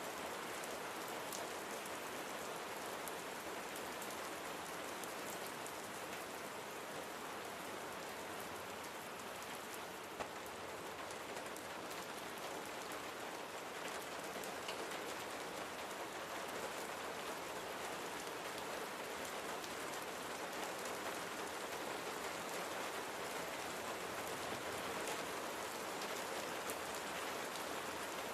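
Steady rain falling, an even hiss of many fine drops with tiny individual drop ticks on a surface.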